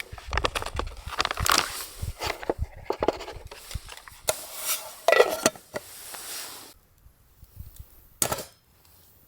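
Cooking utensils clinking and scraping against a pot and dishes: a run of small knocks and rattles, then quiet with one sharp knock near the end.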